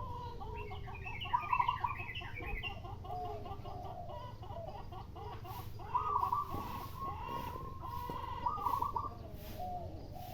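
Zebra doves and spotted doves cooing in overlapping phrases, with smaller birds chattering higher up. A broom sweeps in soft strokes through the second half.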